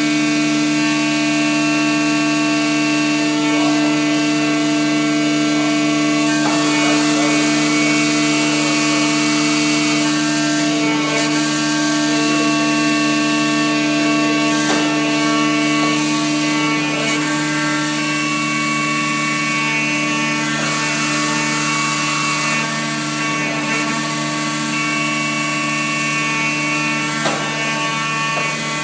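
Peddinghaus CNC sawing and drilling line running: a steady machine whine with a hiss that swells twice, and a few short knocks.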